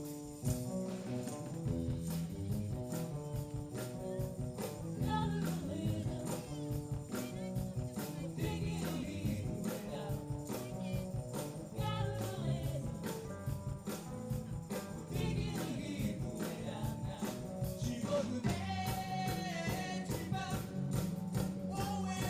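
Live band playing an up-tempo song with a steady beat, bass, chords and a jingling tambourine, with singing coming in from about five seconds in.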